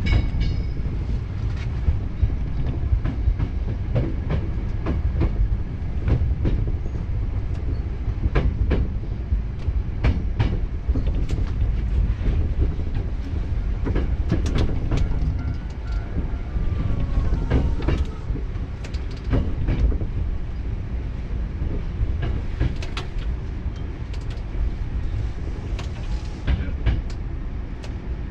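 Hankyu 7000-series electric train running, heard from inside the leading car: a steady low rumble of wheels on rail, broken by irregular clicks as the wheels cross rail joints.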